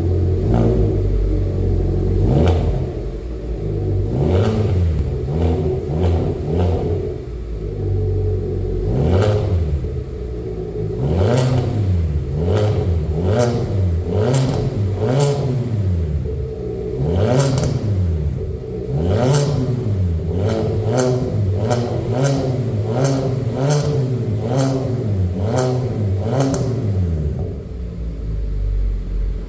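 Hyundai Avante (Elantra) CN7 with an aftermarket variable-valve exhaust, engine blipped through a long series of free revs, rising and falling about once a second through the middle stretch, with sharp cracks between many of the revs. It settles back to a steady idle near the end.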